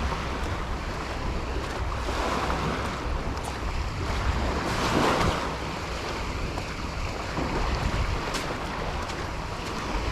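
Surf washing onto a beach, with one wave swelling loudest about halfway through, and wind buffeting the microphone as a low rumble.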